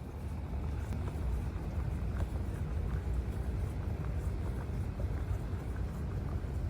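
Steady low rumble of outdoor street background noise, with a few faint ticks.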